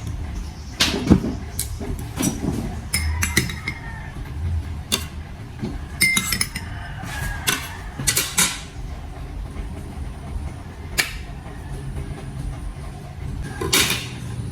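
Kitchen clatter: irregular clinks and knocks of dishes, cups and utensils being handled, a few with a brief ringing tone, over a steady low background rumble.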